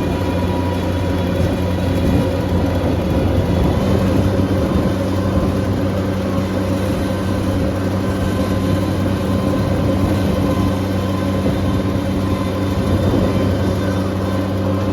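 Bobcat skid steer's engine running steadily under load while it tows the tractor, its note changing about four seconds in.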